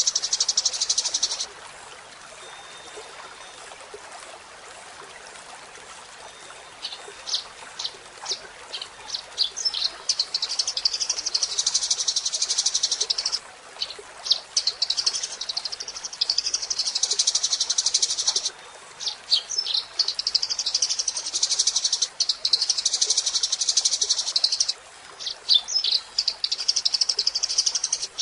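Eurasian tree sparrow singing: a burst of rapid chatter at the start, a lull of a few seconds, then spaced high chirps that quicken into long, rapid chattering runs of several seconds each, broken by short pauses.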